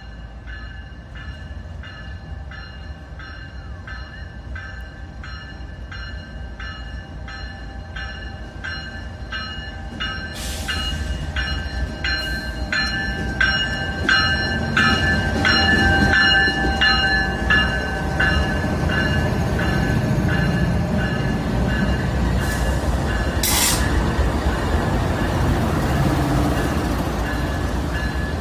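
CSX freight train led by GE diesel locomotives (an ES44AC-H and an AC44CW) approaching and passing at street level. The engine rumble grows louder from about ten seconds in and is loudest as the locomotives go by, while a bell rings steadily about twice a second, fading near the end as the tank cars roll past.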